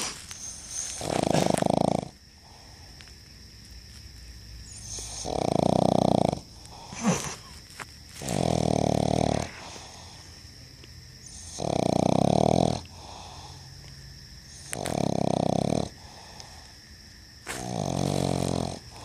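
A pug snoring: six loud, regular snores about every three seconds, each lasting a second or so. A short sharp click comes about seven seconds in.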